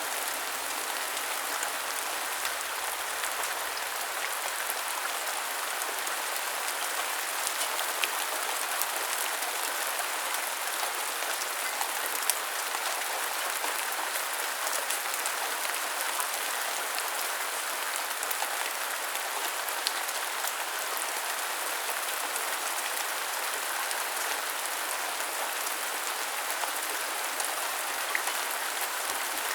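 Steady rain falling on hard surfaces, an even hiss with scattered single drops ticking.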